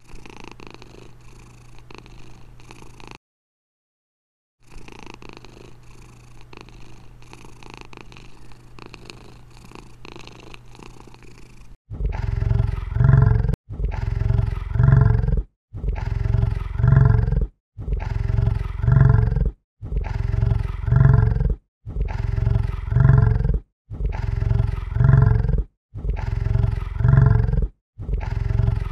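Domestic cat purring steadily, broken by a short silent gap about three seconds in. About twelve seconds in, much louder deep calls from a large animal take over, repeating roughly every two seconds.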